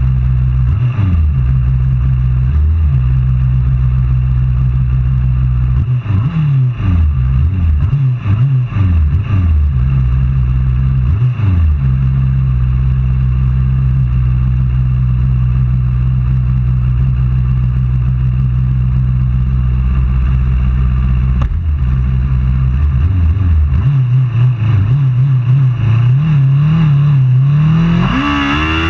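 Superbike racing motorcycle engines running hard at high revs. The pitch drops and climbs again repeatedly about six to twelve seconds in, as the bikes shift and brake, and climbs sharply near the end as a bike accelerates.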